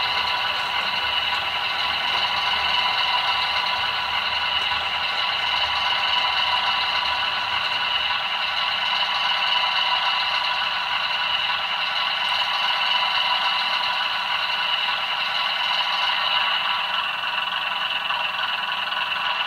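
00 gauge model diesel locomotive running on the layout: the DCC sound decoder's diesel engine sound plays steadily through the model's small speaker, with the scrape and rattle of the model's wheels on the track.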